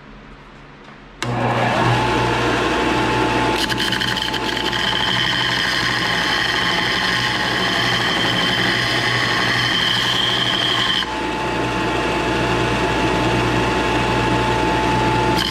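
An electric power tool switches on about a second in and runs steadily with a whine, its tone changing twice. This fits shaping or grinding work on a hammer.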